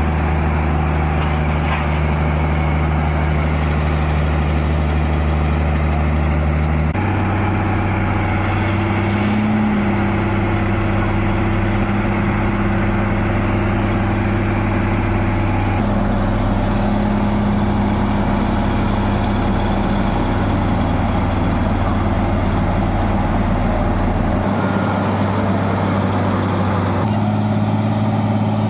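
Heavy vehicle engine running steadily with a low hum, its pitch jumping abruptly to a new level a few times.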